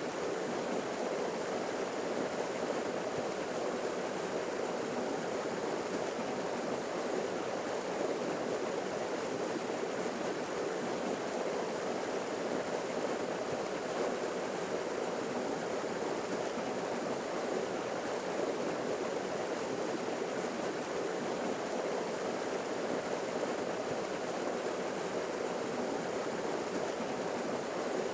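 Forest waterfall splashing steadily: an even rush of falling water, strongest in the lower middle of the range, with no breaks or changes.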